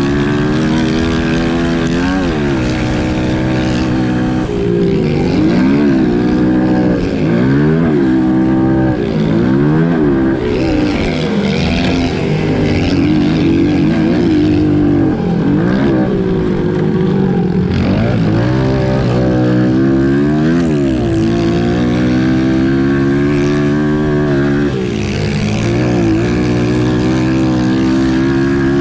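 Pit bike engines revving hard and backing off again and again, every second or two, as the bikes are ridden around a track.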